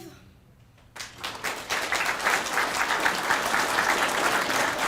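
Crowd applauding and cheering at the end of the national anthem. The clapping breaks out about a second in, after a brief hush, and quickly swells to full, steady applause.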